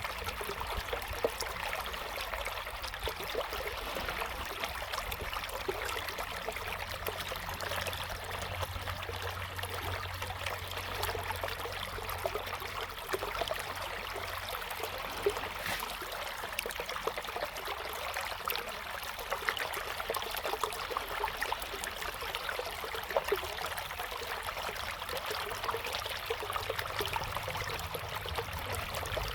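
River water flowing steadily over stones, a continuous babble of small splashes and trickles.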